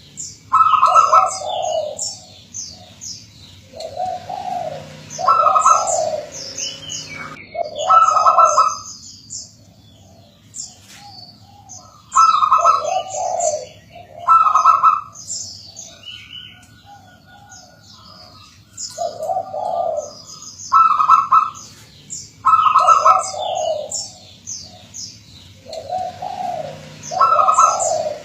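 Zebra dove (perkutut) singing: repeated rhythmic coo phrases every couple of seconds, with a few longer pauses. Fainter high chirps sound throughout.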